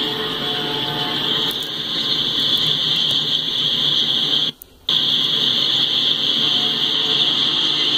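Autorack freight cars rolling past on the track, with a steady high-pitched squeal over the rumble of the wheels. The sound cuts out briefly about four and a half seconds in.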